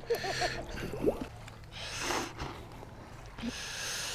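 Water splashing and sloshing in two short bursts as a carp is released back into the lake, with faint voices early on.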